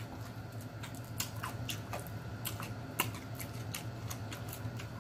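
Close-mic chewing and lip smacking while eating fried chicken, with irregular wet clicks from the mouth and a low steady hum underneath.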